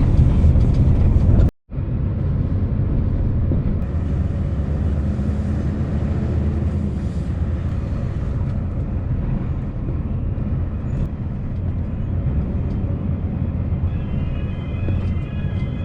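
Scania S650 V8 truck driving slowly, its engine and rolling noise steady and low, with a brief gap about a second and a half in.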